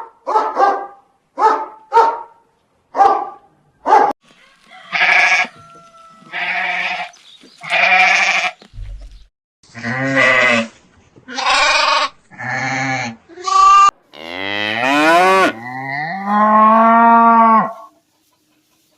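A series of farm-animal calls: about six short, sharp calls in the first four seconds, then a run of longer pitched calls of about a second each, one sliding upward in pitch partway through.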